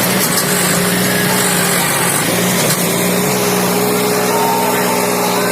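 Sonalika tractor's diesel engine running loudly and steadily, an even drone with a constant hum.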